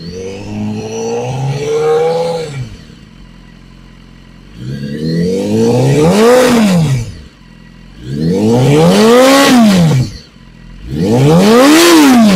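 BMW HP4's inline-four engine with its factory Akrapovic exhaust being revved at a standstill. A lighter rev comes first, then three sharp throttle blips, each rising in pitch and falling back to idle. The peak level measures about 107 dB on a sound level meter.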